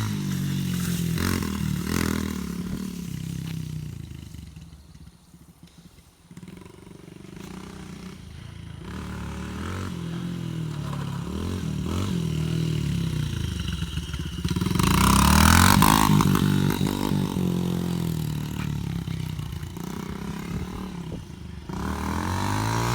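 Dirt bike engine revving up and down, its pitch rising and falling. It fades as the bike moves away about five seconds in, then comes back and is loudest around fifteen seconds in as it passes close.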